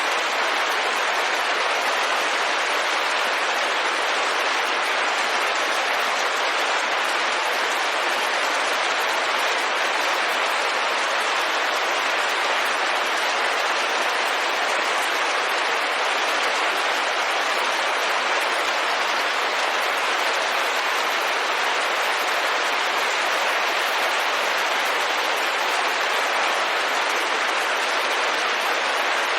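Steady rain falling on a window, an even hiss with no single drops or thunder standing out.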